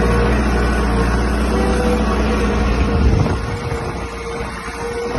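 Tractor engine running steadily; a little over three seconds in, its deep rumble falls away and it grows quieter.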